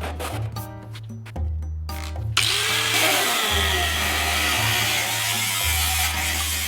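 A power tool working scrap stainless steel, starting about two and a half seconds in and running steadily, over background music with a steady bass line.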